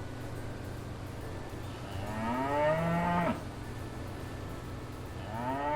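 A cow mooing twice. One long moo comes about two seconds in, and another begins near the end; each rises in pitch and then falls away.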